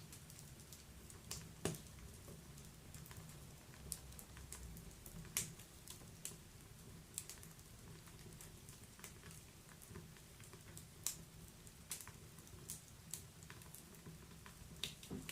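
Wood fire in a fireplace crackling: irregular sharp pops and snaps, one or two a second, over a faint low background.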